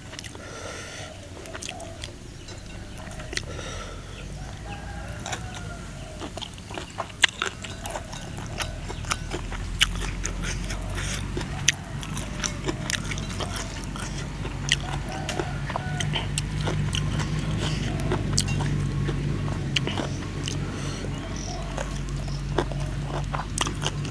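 A man chewing and crunching food close to the microphone, with many sharp, irregular crunches and mouth sounds. From about eight seconds in, a low steady hum builds up underneath and slowly grows louder.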